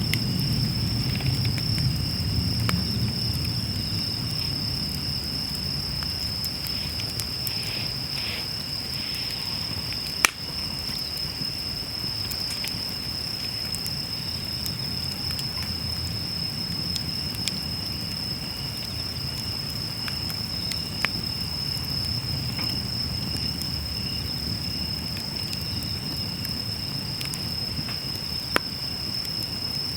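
Wood fire burning steadily with a few sharp pops, the loudest about a third of the way in, over a continuous high-pitched trill of crickets.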